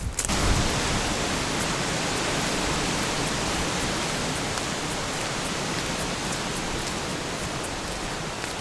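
Steady hiss of falling water, rain or cascading water, that starts abruptly just after the start and holds evenly, easing slightly toward the end.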